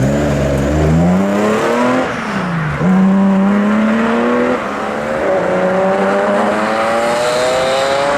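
Classic car engine accelerating hard away, its pitch climbing in each gear and dropping back at two gear changes, about two and a half and four and a half seconds in, then rising slowly in the next gear.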